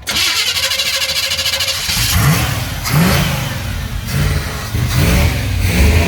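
Truck's freshly built engine cranking on the starter, then catching and firing up about two seconds in and being revved in about half a dozen short blips of the throttle as it starts after sitting unused for a while.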